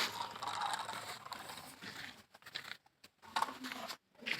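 Irregular mechanical clicking and rattling of a small mechanism, breaking into short separate bursts after about two seconds.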